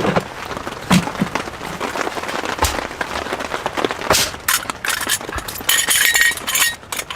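A series of sharp clinks and knocks of hard objects being handled, with a short, dense rattle about six seconds in.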